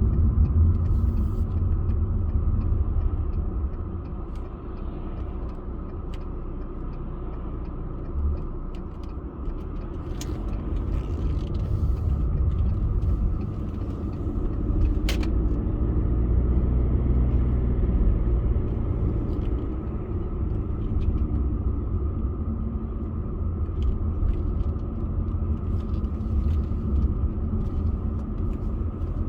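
A car driving, its engine and tyre noise making a steady low rumble, with a few short clicks.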